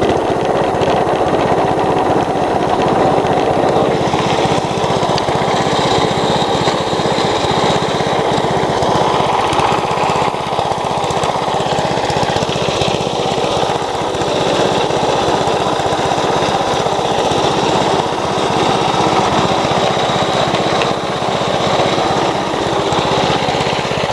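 Riding lawn mower's small gasoline engine running steadily, heard up close from the hood.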